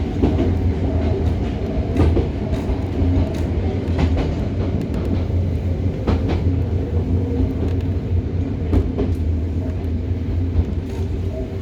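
Hokuriku Railroad 03 series trailer car running, heard from inside the cabin: a steady low rumble of wheels on the track, with sharp clicks from the rail joints every second or two.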